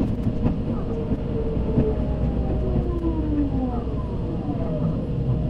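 Tobu 100 series Spacia train heard from inside the carriage while running: a steady rumble with scattered clicks. Several falling whining tones come in about halfway through.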